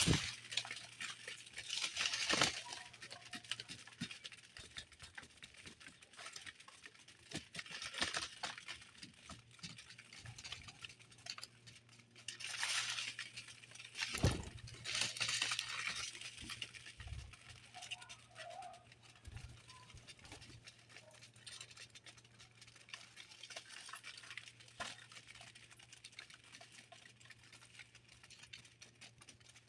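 Small birds moving about at a feeder: scattered light taps and rustles, with a few brief bursts of wing flutter.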